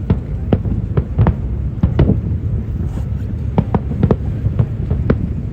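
Aerial fireworks bursting in quick, irregular succession: about a dozen sharp bangs over a steady low rumble.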